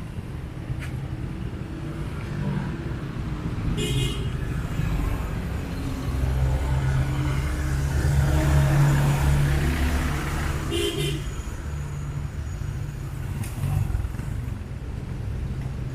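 Street traffic: vehicle engines running as cars pass, the loudest passing close in the middle. Two short horn toots sound, about four seconds in and again near eleven seconds.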